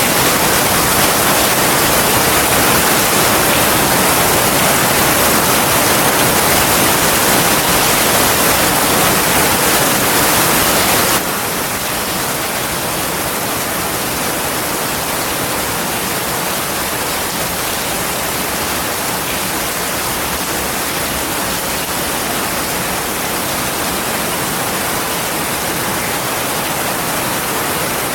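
Heavy rain falling steadily, a dense, even hiss with no distinct drops or thunder. About 11 seconds in it drops abruptly to a slightly quieter level, as at a cut between recordings.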